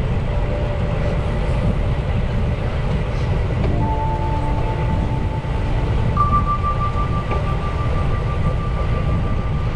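Wind rushing over the microphone of a camera riding along on a moving bicycle: a steady, loud low rumble, with faint steady tones that change pitch about four and six seconds in.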